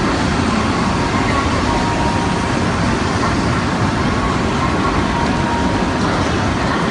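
Steady, even noise of a Shinkansen bullet train standing at a station platform, with a faint thin tone coming and going.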